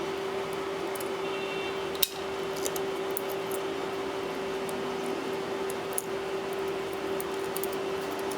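Small clicks and light ticks of tools and parts being handled while a tablet is taken apart: one sharp click about two seconds in and a smaller one about six seconds in, over a steady hum.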